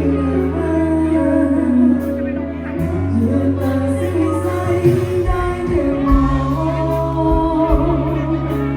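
Live band playing a pop song with a singer, heard over an amplified PA in a large room, with strong held bass notes under the vocal line.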